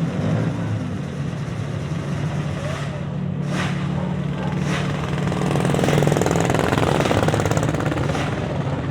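Vintage motorcycle engines running at low revs in a steady drone, growing louder around six seconds in.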